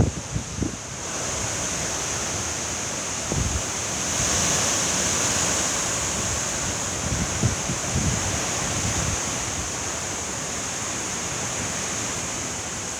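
Heavy storm rain and wind making a steady rushing hiss that swells about four seconds in, with gusts buffeting the microphone now and then.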